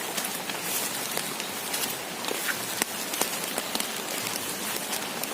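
Heavy rain falling steadily, with many sharp close-by drop hits ticking over the hiss.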